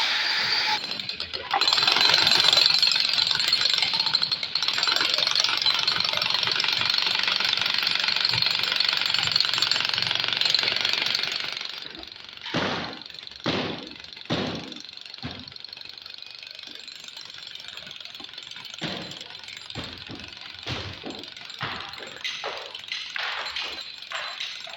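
Electric demolition hammer (jackhammer) breaking concrete in a dense, rapid hammering for about eleven seconds. After it stops, separate irregular knocks and impacts on the concrete follow.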